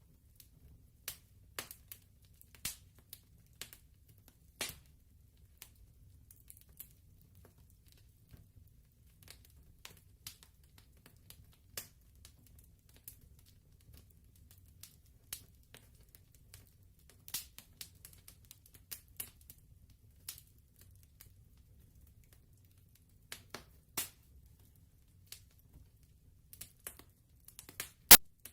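Wood fire crackling: irregular sharp pops and snaps over a faint low rumble, with one louder pop near the end.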